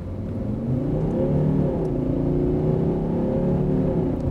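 Volvo V60 Plug-in Hybrid's five-cylinder diesel engine accelerating hard from a standstill in power mode. Its pitch climbs, falls once about a second and a half in at a gear change, then climbs again.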